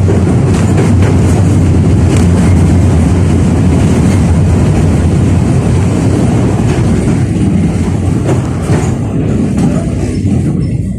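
71-605A (KTM-5A) tram running along the track, heard on board: a steady low rumble of wheels and running gear, with a few sharp clicks over the rails. It grows quieter near the end.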